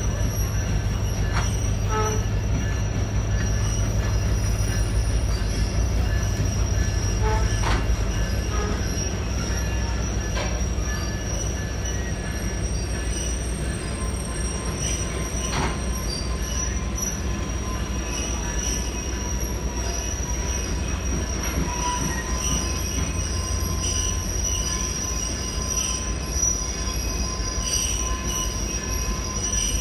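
Train running on the rails, heard from aboard: a steady low rumble under a thin, high, continuous wheel squeal, with a few sharp clicks. The run takes it between concrete walls and into a tunnel.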